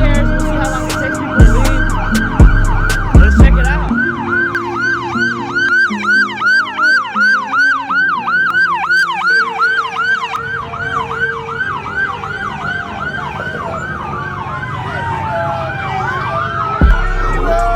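Police siren in a fast yelp, about four rising-and-falling sweeps a second, that slows to longer wailing sweeps partway through. Hip-hop instrumental music plays with it: its beat stops about four seconds in and comes back near the end.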